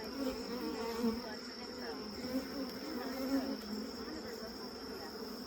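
Swarm of honey bees buzzing around an open hive, many wingbeats overlapping into a steady drone that wavers in pitch.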